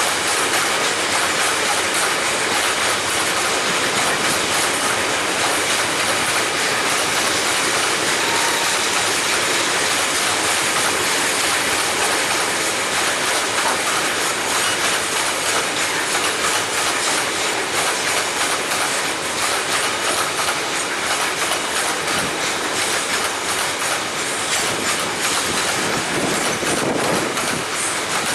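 Freight train rolling past close by: a loud, steady rush of steel wheels on rails that keeps on without a break.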